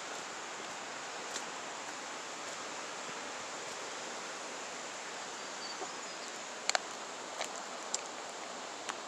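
Steady rush of flowing water from a creek or waterfall. A few short sharp clicks break in, two of them close together about two-thirds of the way through.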